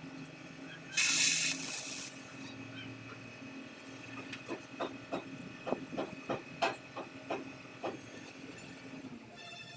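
A loud burst of hiss lasting about a second and a half, about a second in, then a run of about a dozen light, irregular taps over a steady low hum.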